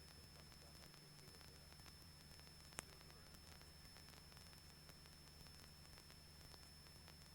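Near silence: a faint steady electrical hiss and hum with a thin high whine, and a single sharp click almost three seconds in.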